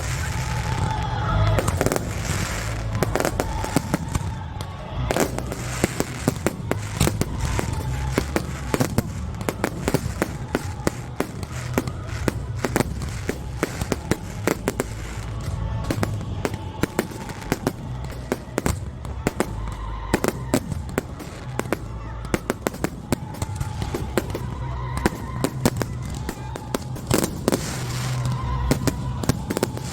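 Fireworks display going off in quick succession, many sharp bangs and crackles, with music playing underneath.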